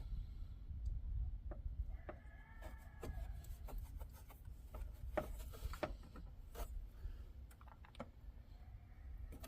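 Scattered light clicks, taps and scraping of hand tools and small metal parts being handled while refitting a water pump on a Nissan KA24E engine, with a brief metallic ring about two seconds in.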